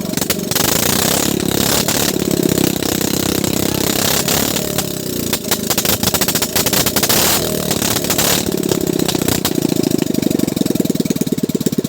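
Small gasoline boat engine running with a rapid clatter, its speed rising and falling unevenly, which the owner puts down to old gasoline.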